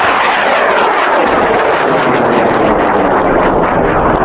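A cluster of high-power rocket motors (an M2000 core with three M and three L motors) burning at liftoff. It is a loud, steady, rough roar with crackling, and its tone sweeps downward as the rocket climbs away.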